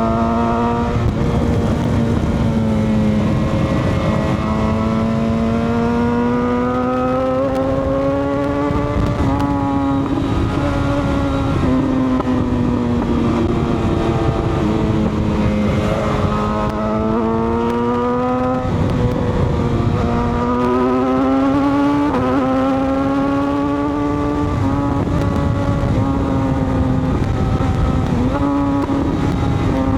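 Motorcycle engine running under way, its pitch slowly climbing and falling with the throttle and dipping sharply several times. A steady low rushing noise sits underneath.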